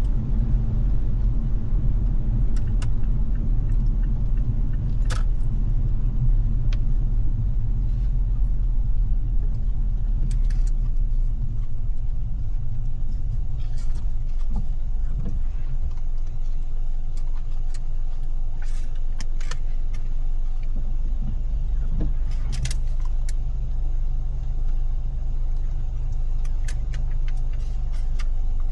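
A car driving: steady low rumble of engine and tyre noise, with scattered light ticks and clicks throughout.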